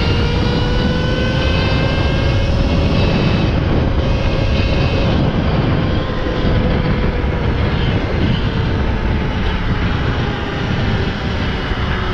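Electric dirt bike ridden at road speed: the motor's steady whine rises a little in pitch and then slowly falls, over a heavy rumble of wind on the microphone.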